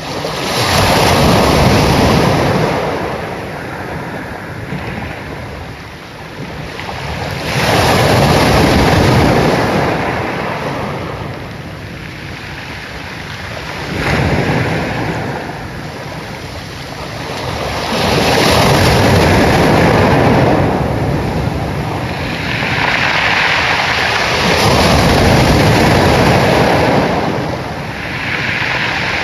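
Ocean waves breaking and washing ashore, the surf swelling and fading in surges about every five to six seconds.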